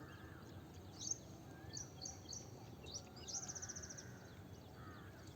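Small birds chirping faintly: short high notes in quick clusters, with a rapid trill about three seconds in.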